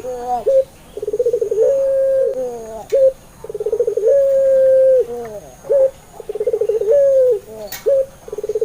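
Puter pelung, a barbary dove (Streptopelia risoria) variety kept for its long coo, cooing over and over. It gives about three phrases, each a fast rolling stutter that runs into a long level note, followed by a short clipped note. Faint chirps of other small birds sound behind it, and there is a single click near the end.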